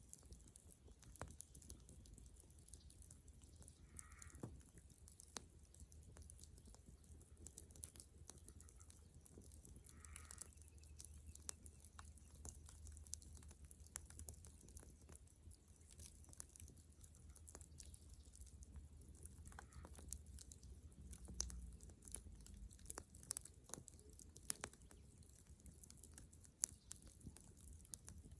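Bonfire of dead wood and branches crackling quietly, with irregular sharp pops and snaps scattered throughout.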